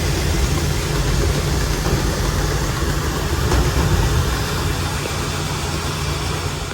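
Duct-cleaning vacuum equipment running steadily: a loud, constant rush of air over a low rumble, easing off near the end.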